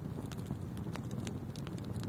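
Wood fire burning in a fireplace: a steady low rush of flame with scattered sharp crackles and pops from the burning wood, several each second.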